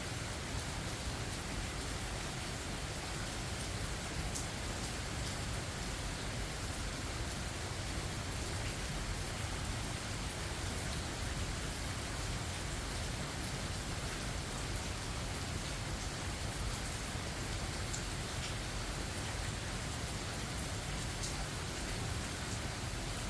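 Steady rain falling, an even hiss with a few sharp drop ticks scattered through it and no thunder.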